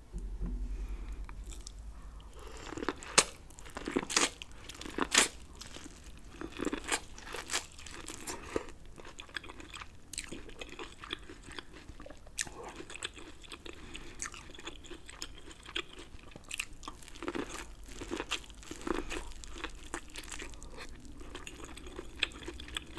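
Biting and chewing corn on the cob coated in Alfredo sauce, close to the microphone: crisp kernel crunches and wet chewing, the loudest bites coming about three to five seconds in.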